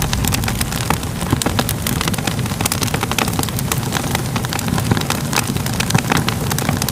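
Fire crackling: a steady low rumble of burning with many sharp pops and crackles, several a second.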